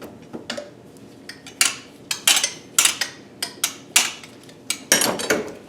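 A quick, irregular run of sharp metal clanks and taps: hand tools striking and working against a stuck exhaust manifold fastener on a KA24DE engine while it is being broken loose.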